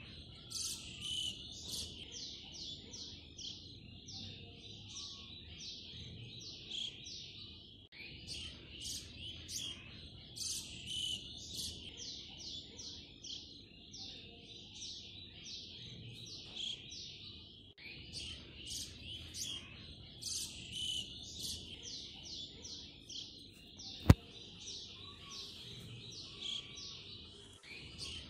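Small birds chirping rapidly and continuously in high, quick notes, with one sharp click late on.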